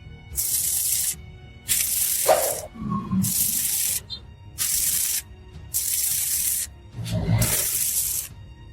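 MIG welding arc crackling in short, evenly spaced bursts of just under a second each, the trigger pulsed on and off about every second and a half as in stitch welding, with background music underneath.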